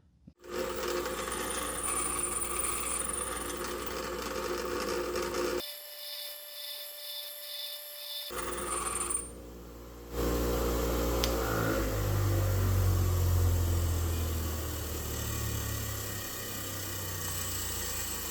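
Power grinder running as it grinds down the outer wall of a steel 11/16 deep socket, thinning it to fit a narrow spark plug well: a steady grinding hiss over the tool's motor hum. It breaks off for a couple of seconds about six seconds in, then resumes.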